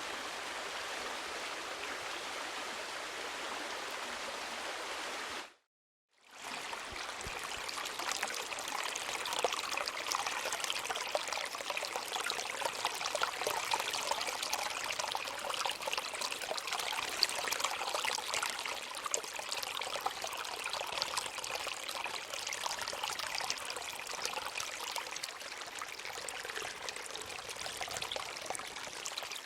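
Two recordings of flowing water, split by a brief silence about six seconds in: first an even rush of a stream, then a louder, more broken trickling and bubbling flow that eases off near the end.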